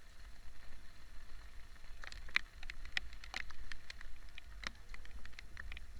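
Rain falling, with irregular drops tapping sharply on a surface from about two seconds in, over a low steady rumble.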